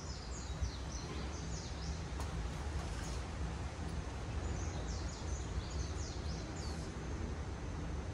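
A small bird chirping in two bursts of quick, high notes, over a steady low hum.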